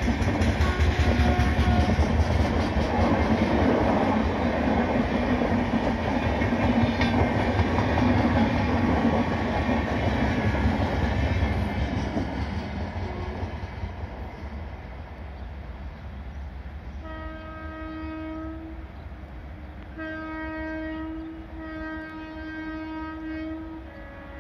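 Passenger coaches rolling past with a steady rumble and clickety-clack of wheels over the rail joints, fading as the train draws away. Then a distant locomotive horn sounds three blasts, the first and last about two seconds long and the middle one shorter.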